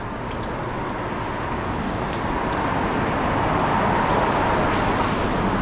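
City street traffic: the engine and tyre noise of a passing motor vehicle, getting steadily louder as it approaches.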